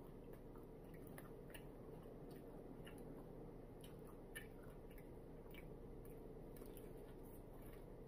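Faint chewing of a chicken wing, with scattered soft mouth clicks over a steady low hum.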